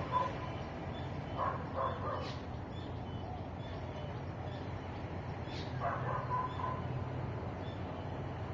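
A dog barking, a quick pair of barks about a second and a half in and another short run about six seconds in, over a steady low background hum.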